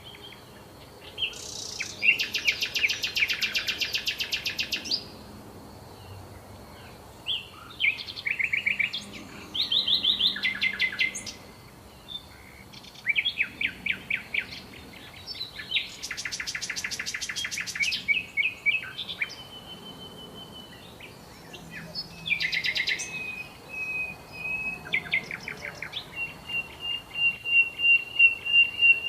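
Several songbirds singing: bursts of fast, high trills and chirps every few seconds, some overlapping, then a long trill of rapid repeated notes that grows louder near the end.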